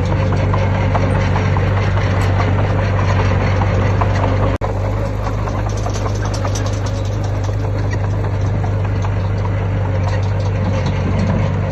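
Heavy diesel engine of earthmoving machinery running steadily with a strong low hum, cut off for a split second about four and a half seconds in.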